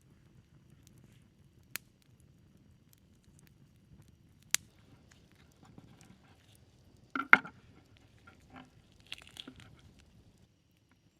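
A few sharp, isolated clicks and knocks over a quiet background, with the loudest cluster of knocks about seven seconds in and a few softer clicks after it.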